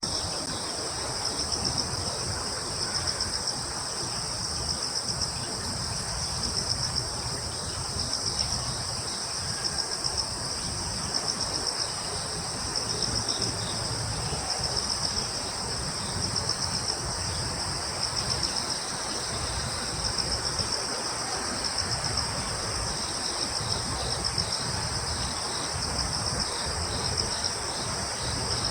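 Chorus of crickets trilling in two high pitches, the sound swelling and fading every second or two, over a low, steady rumble.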